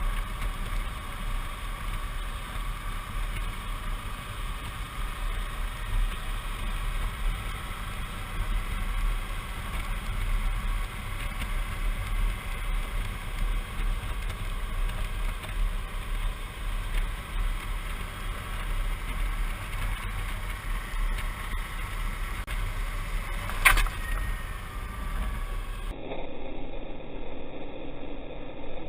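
Suzuki V-Strom 650 motorcycle under way, its V-twin engine running steadily under a continuous rumble of wind and road noise. There is one sharp click near the end, and then the sound cuts off abruptly to a different, quieter recording.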